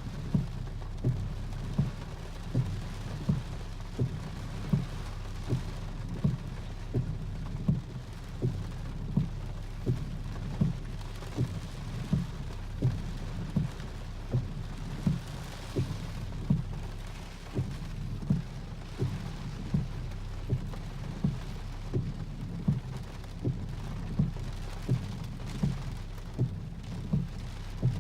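Strong wind and rain of a passing cold front, with a steady low rumble. Over it runs a regular series of dull knocks, about three every two seconds.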